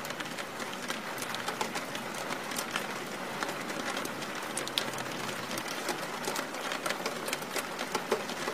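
Steady rain falling, with many distinct drops ticking through it.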